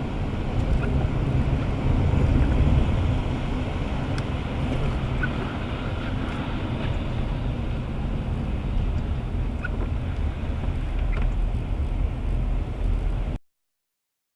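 Steady low rumble of road and wind noise in a moving car, picked up by a dash cam, with a few faint clicks; it cuts off suddenly near the end.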